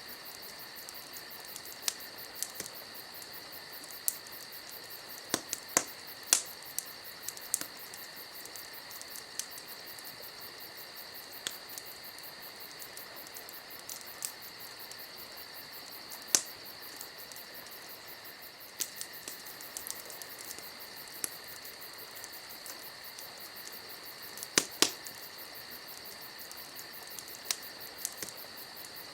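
Wood fire crackling, with sharp irregular pops every second or two and two louder snaps, one about halfway through and a close pair near the end, over a steady high-pitched trill.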